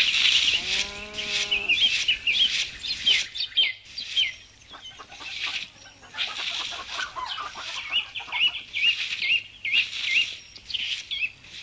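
Small birds chirping in quick, repeated up-and-down notes. A single short, lower call from a farm animal or fowl comes about a second in.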